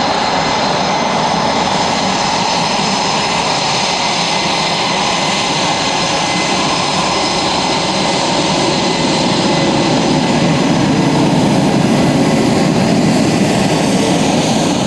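Jet aircraft engines running with a steady rushing noise and a faint high whine, growing a little louder and deeper in the second half.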